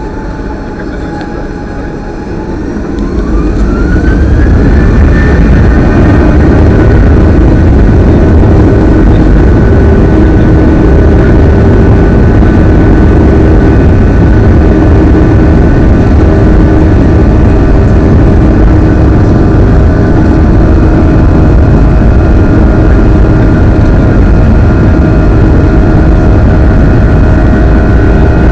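Airliner's engines spooling up to takeoff thrust: a whine rises in pitch over about three seconds as the sound grows much louder, then holds as a steady, loud engine noise with fixed high tones.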